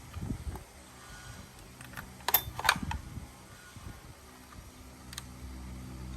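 Scattered sharp clicks and light knocks from hand work, with a steady low hum coming in near the end.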